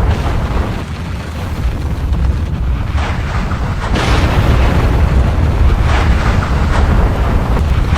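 Volcanic eruption: a continuous deep rumble with repeated sudden blasts and rushing hiss, the strongest blast about halfway through.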